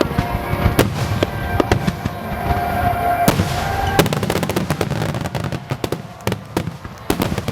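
Aerial fireworks bursting in a string of sharp bangs, thickening into a rapid run of crackling reports from about four seconds in, over music playing along with the show.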